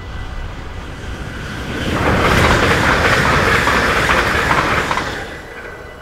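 Dutch passenger train passing at speed over a level crossing: the rush of wheels on rail and air builds suddenly about two seconds in, stays loud for about three seconds, then dies away.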